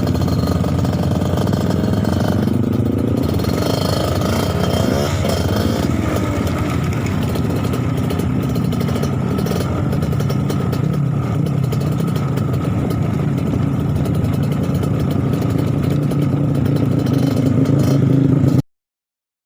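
Trail motorcycle engine running, its pitch rising and falling over the first few seconds as it revs, then holding steady at a low speed until the sound cuts off abruptly near the end.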